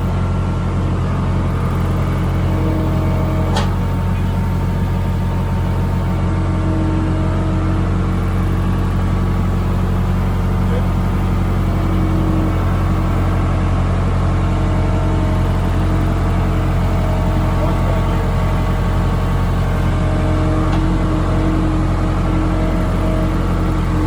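Skid loader engine running steadily under light load, with a single sharp click about three and a half seconds in.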